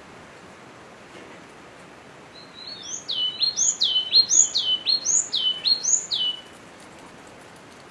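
Yellow-cheeked tit singing: one phrase of about five repeated two-note figures, each with a high note sweeping down, lasting about four seconds, over a steady background hiss.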